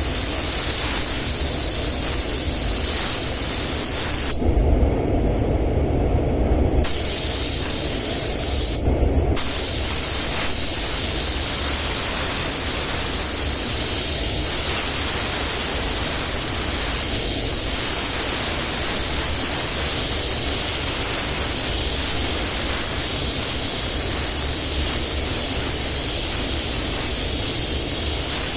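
Compressed-air paint spray gun hissing steadily as paint is sprayed. The hiss stops for about two seconds around the fifth second and briefly again around the ninth, as the trigger is let off. A steady low rumble runs underneath.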